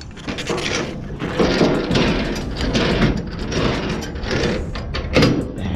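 Container-chassis landing gear being cranked down by hand: a dense run of metallic clicking and grinding from the crank gearbox, rising and falling in waves.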